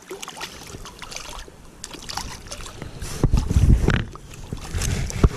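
Handling noise of an angler working a small caught trout off the hook: scattered light clicks and rustles. A low rumble of wind buffeting the microphone comes about three seconds in, and a single sharp knock sounds near the end.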